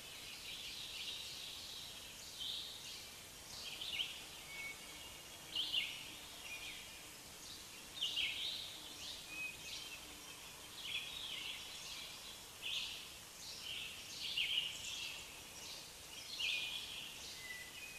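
Birds chirping and calling: many short, high calls, one every second or so, over a faint steady hiss.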